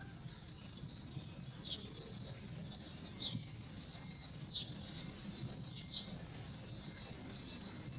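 A small bird chirping, with about four short, high, falling chirps spaced a second or so apart, faint over a low steady background hum.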